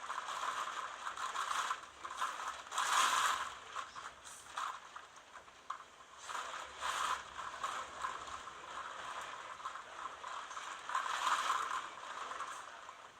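Typhoon Jebi's winds gusting, with a constant rapid rattling and a hissing rush that swell three times, about 3, 7 and 11 seconds in.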